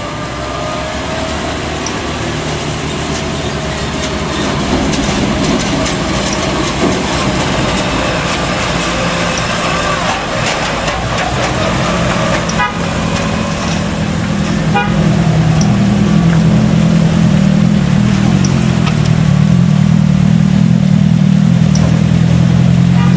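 Hino truck's diesel engine pulling hard up a steep climb, getting louder about halfway through, with horn toots.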